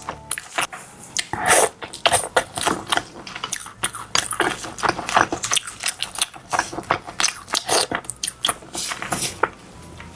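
Close-miked biting and chewing of crisp, crunchy food: a rapid, irregular run of loud crackling crunches, the biggest bite about a second and a half in.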